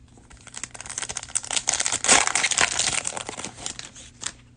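Crinkling plastic of a trading-card cello pack wrapper being handled and opened, in irregular crackles that are loudest about two seconds in.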